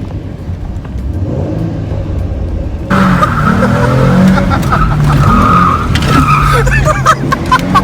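Car engine running during a ride. About three seconds in, a loud tyre squeal starts and goes on as the car skids, with riders' excited voices over it.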